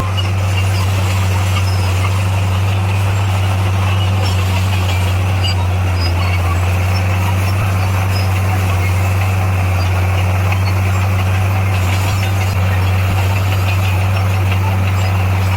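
Heavy diesel engine of road-building machinery running at a steady speed, a constant low hum with no change in pitch.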